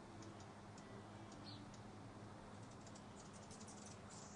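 Faint, high-pitched ticking chips from hummingbirds, scattered and then coming thick and fast near the end, with one short falling chirp about a second and a half in, over a low steady hum.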